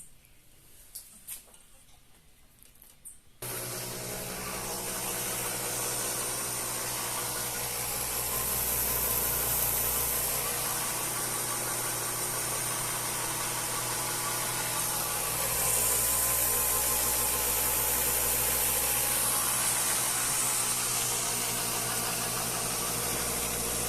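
A few faint clicks, then, about three and a half seconds in, a steady mechanical running noise starts suddenly: a low hum with a hiss over it.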